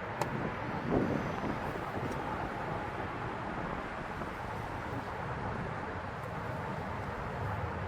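Steady wind noise on the microphone, an even rushing, with one brief click near the start.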